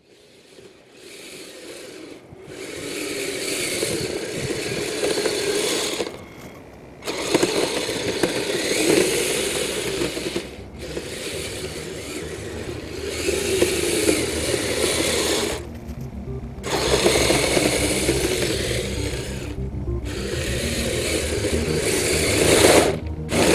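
Kyosho Blizzard RC snow cat's twin electric drive motors and gear trains whirring, running in bursts that stop and start about five times as the tracks are driven.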